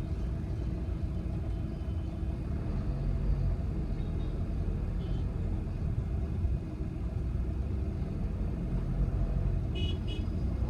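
Steady low rumble of road and engine noise heard inside the cabin of a Volkswagen Vento 1.5 TDI diesel on the move. Near the end, a car horn toots twice briefly.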